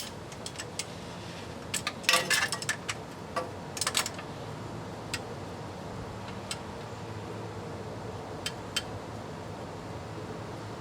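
Metal clinks and taps of a socket and extension on the bolts of a transmission oil pan being torqued down. There are two short clusters, about two and four seconds in, then a few single ticks, over a steady low hum.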